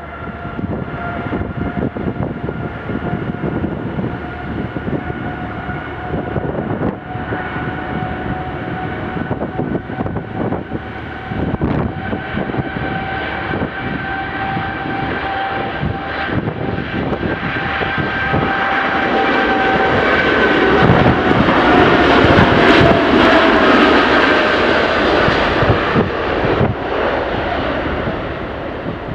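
Jet airliner taking off, engines at takeoff power: a steady whine over a rushing roar that grows louder, peaks about three quarters of the way through as the whine drops in pitch while the aircraft passes, then begins to fade.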